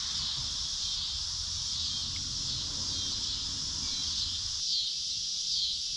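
Steady chorus of insects chirping, a high pulsing trill with repeated falling notes. Under it is a low rumbling, rustling noise that stops abruptly about two-thirds of the way through.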